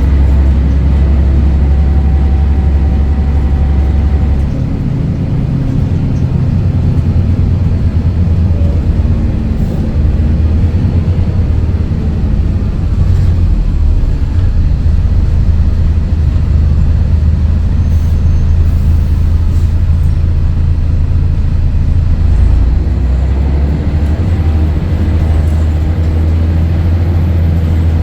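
Scania DSC11 diesel engine of a Scania L113CRL bus running with a steady low drone. About 22 seconds in it pulls away hard from a stop, the drone swelling to its loudest.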